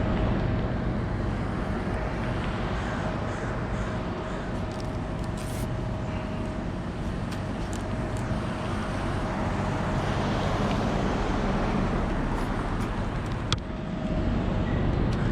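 Bucket truck's engine running steadily, with a faint steady whine over it. One sharp click near the end.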